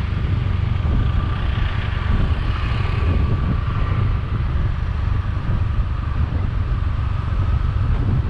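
Motorbike engine running at steady speed while riding, with wind buffeting the microphone as a heavy low rumble and a faint steady whine above it.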